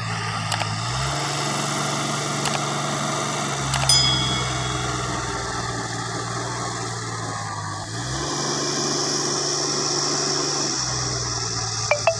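Heavy machine's engine running steadily, its pitch stepping up about a second in and dropping back about 3.5 s in, then stepping up again near 8 s and dropping back near 11 s. A few short knocks, the loudest about 4 s in and near the end.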